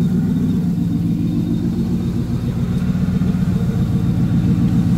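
Turbocharged Infiniti Q45 V8 engine idling steadily at operating temperature.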